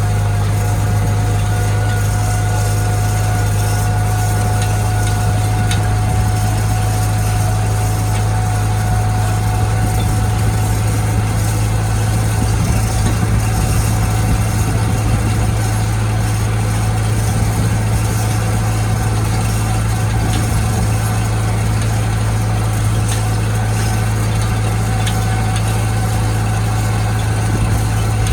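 International Harvester tractor engine running at a steady speed, a constant low drone with a thin steady whine above it and no change in pitch.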